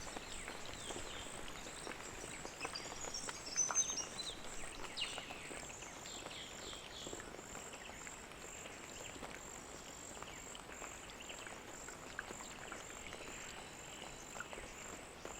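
Wetland ambience: a high, steadily pulsing insect call runs throughout, and birds chirp and call, most busily in the first half, over a light outdoor hiss.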